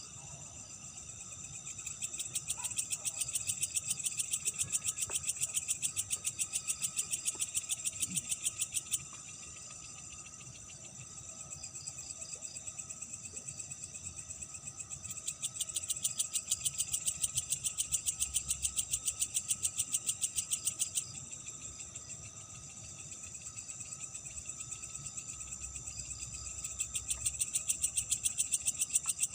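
Night insects calling: a steady high-pitched chorus under a loud, rapidly pulsing insect call. The pulsing call comes in bouts of about six seconds, starting about two seconds in, again near the middle and again near the end, with pauses between.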